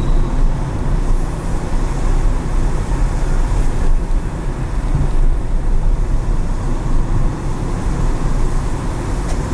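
A car driving on city streets, with steady low road and engine rumble and tyre noise.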